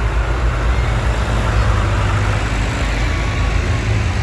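Tractor engines running with a steady, deep drone.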